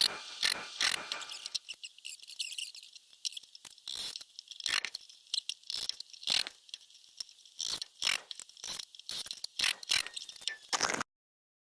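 Irregular clicks and light taps of small metal wall-hanger clips being fitted and screwed onto a wooden rack by hand, a little more than one a second. The sound cuts off suddenly near the end.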